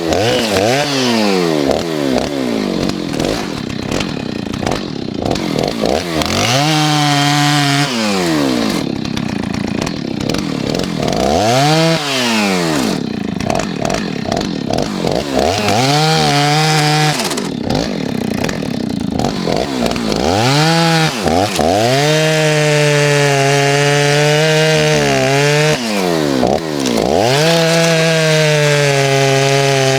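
Stihl 039 two-stroke chainsaw cutting firewood logs. The engine drops off toward idle and revs back up about six times, holding steady at high revs under load between the drops.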